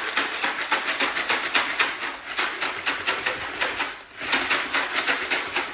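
Wood cat-litter pellets rattling in a sifting litter tray shaken quickly back and forth, with a brief let-up about four seconds in. This is the sifting step: the crumbled, urine-soaked bark dust falls through the holes and the whole pellets stay on top.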